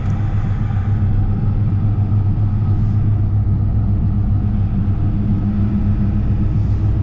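Steady engine and road noise heard from inside a moving vehicle, a low hum holding an even pitch.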